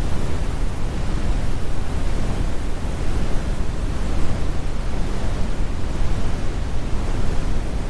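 Steady, deep brown noise: an even, unbroken rumble strongest in the bass, with the high end rolled off.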